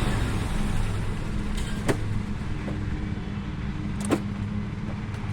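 1984 Oldsmobile Cutlass Supreme's engine idling steadily while the front wheels are steered, with two short sharp clicks about two and four seconds in.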